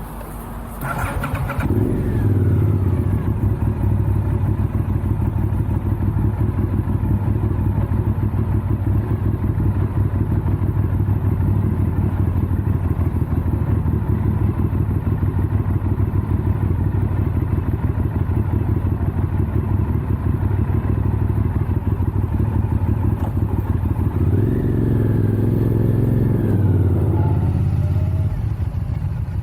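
Motorcycle engine starting about a second and a half in, then running steadily. Its pitch rises and swells from about 23 s in and eases off near the end.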